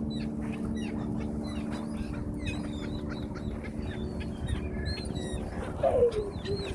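A flock of ducks and other birds calling: a stream of short, high chirps and calls, with a falling call near the end, over a steady low hum.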